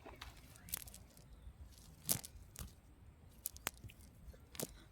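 Several sharp crunching clicks at uneven intervals, the loudest about two seconds in.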